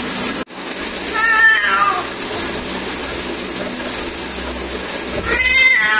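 Female cat meowing twice, two drawn-out wavering calls about four seconds apart, the first sliding down in pitch at its end: a female cat calling for a mate.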